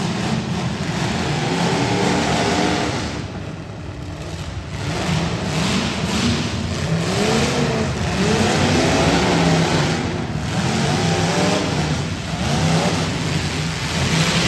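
Demolition derby cars' engines revving up and falling back over and over, with a brief lull about four seconds in.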